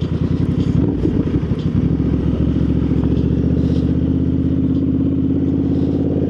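Motorcycle engine running, uneven and choppy for the first couple of seconds, then settling into a smooth, steady drone at constant engine speed.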